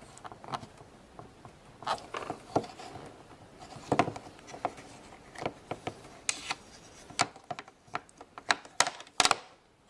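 Irregular clicks and taps of a plastic Play-Doh popsicle mold being pressed and handled, with a quicker run of clicks near the end.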